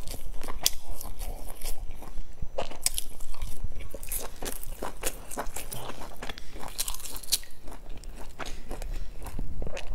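Crunchy chewing and biting of crisp fried pastry close to the microphone: a dense run of sharp crunches.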